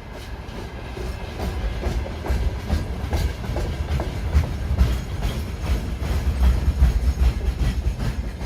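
A train passing on the track: low rumble with wheels clicking over the rail joints, growing louder from about halfway.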